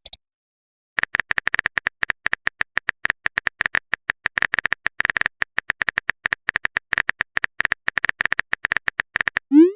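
Rapid keyboard-typing clicks of a phone-texting sound effect, starting about a second in and running on quickly. Near the end a short rising swoop begins: the message-sent sound.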